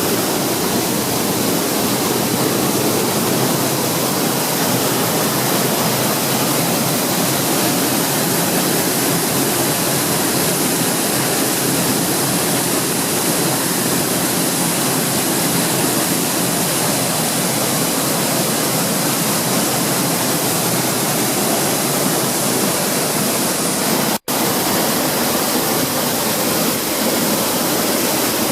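Waterfall pouring close by: a loud, steady rush of falling water with no letup, cutting out for an instant about 24 seconds in.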